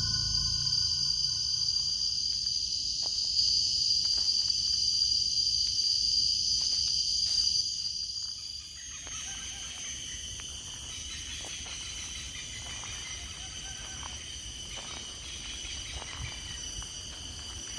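Insects buzzing in a steady high-pitched chorus of several held tones, which shift about halfway through, over a low rumble with scattered clicks.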